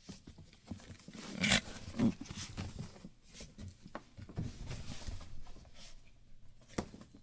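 A dog making a series of short, irregular sounds, loudest about one and a half and two seconds in, with a sharp click near the end.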